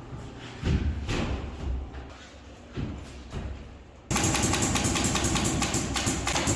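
Irregular low thuds and knocks of building work on a partition wall. About four seconds in, this cuts off abruptly to loud music with a fast, even percussive beat.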